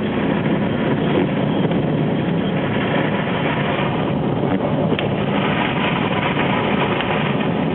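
A car's running engine and rumble heard from inside the cabin, a steady noise with no break.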